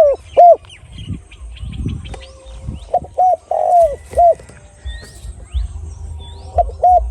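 Spotted dove cooing: a single coo at the start, then about three seconds in a phrase of short coos ending in a longer, falling coo, with another phrase beginning near the end. Small birds chirp thinly in the background.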